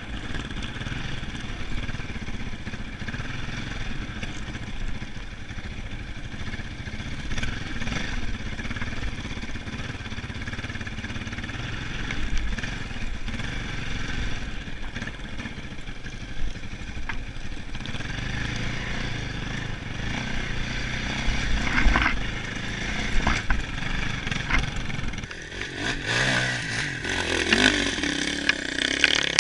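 Enduro dirt bike engine running and revving on a steep hill climb, with stronger revs that rise and fall near the end.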